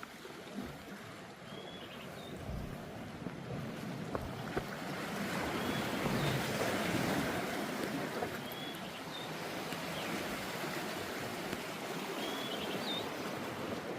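Sea waves washing against a rocky shore, swelling to a louder surge midway and easing off again. A few short high chirps sound now and then over the surf.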